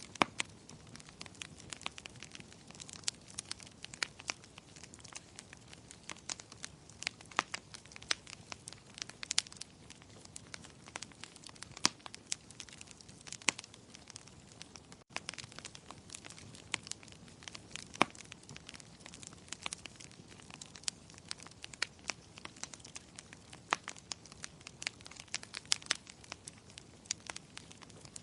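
Wood fire crackling in a fireplace: frequent sharp pops and snaps over a soft, low rush of flame, with a momentary gap about halfway through.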